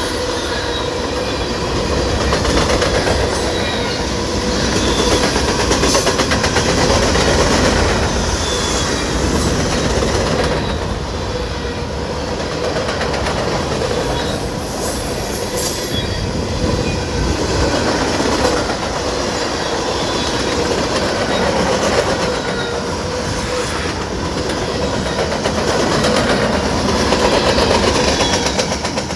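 Freight cars of a fast-moving mixed freight train rolling past close by: a steady rumble of steel wheels on rail with clickety-clack over the rail joints, swelling and easing every few seconds as the cars go by, and a faint steady whine.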